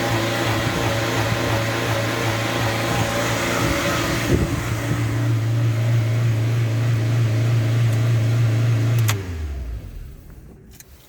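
Renault Twingo 1.2 16v engine running at a steady, raised idle, the high-revving fault that the owner traced to a faulty throttle body. About nine seconds in it is switched off and runs down quickly, and a few faint clicks follow.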